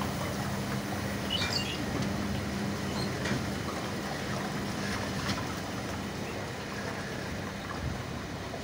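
Passenger train running slowly through floodwater over the tracks: a steady rumble and low hum with water swishing along the carriages, and a few faint high chirps in the first few seconds.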